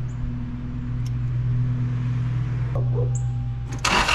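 A steady low hum, then near the end the 1996 Toyota Tacoma's engine is cranked and catches with a loud burst, being restarted to check a newly adjusted idle that had been dropping too low and stalling.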